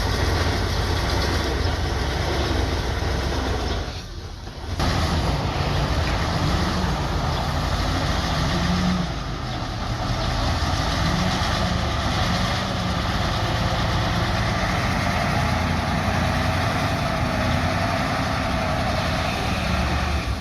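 Bulldozer's diesel engine running steadily, with a brief dip in level about four seconds in.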